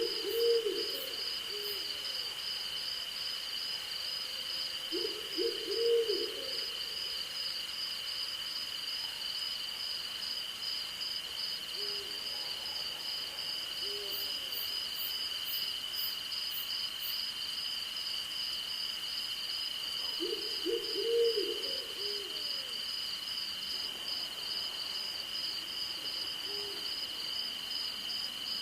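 An owl hooting in short runs of hoots: louder bouts right at the start, about six seconds in and about twenty-one seconds in, with softer single hoots between. Under it runs a steady night chorus of crickets and other insects, one even trill and a higher pulsing one.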